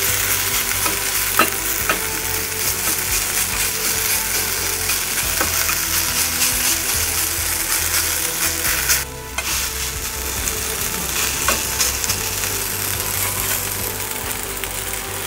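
Mashed tater tots frying in a nonstick skillet and buttered bread toasting in a cast-iron pan: a steady sizzle, with a plastic spatula stirring and clicking against the pan now and then. The sizzle drops out briefly about nine seconds in.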